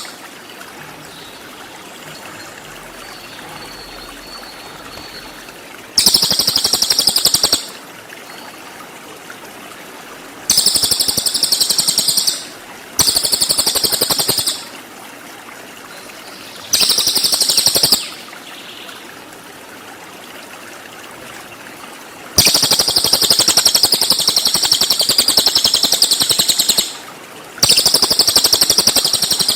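Cililin songbird singing its 'tembakan': very fast, high-pitched trills of rapid-fire notes, in about six bursts of one to four seconds, with a faint steady hiss between them.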